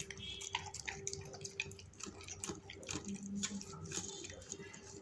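A golden retriever eating rice from a bowl: quick, irregular wet smacking and chewing clicks.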